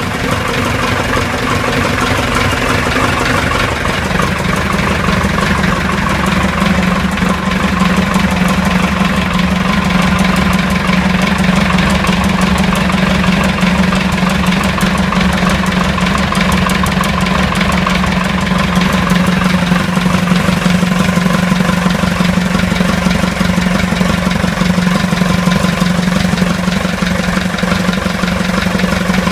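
BMC diesel engine, swapped in from a JCB, running steadily; its note firms up about four seconds in and then holds even.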